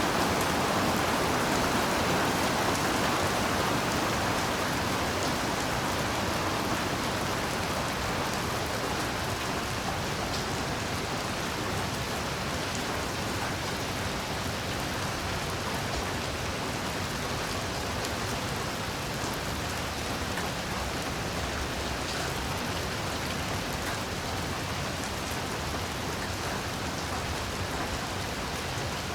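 Heavy rain falling steadily, a dense even hiss of drops, easing slightly over the first few seconds.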